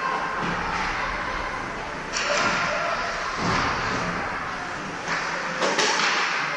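Ice hockey rink noise: a continuous wash of skate and play sound over a murmur of voices, with two sharp impacts, about two seconds in and near the end, of the kind a puck or player makes hitting the boards.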